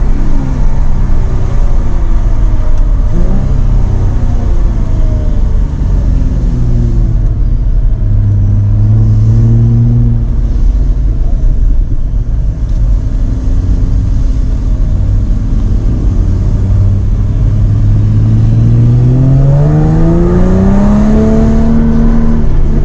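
Jaguar F-Type engine under way, its pitch rising and falling as the car accelerates and eases off. A long, steady climb in revs comes about three-quarters of the way through, then levels off.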